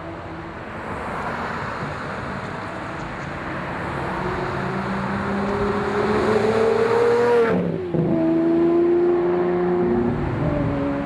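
Lamborghini Murcielago LP640's V12 engine accelerating hard, its pitch climbing for a few seconds, then dropping sharply about two-thirds of the way through as it shifts up. It then pulls on at a lower pitch.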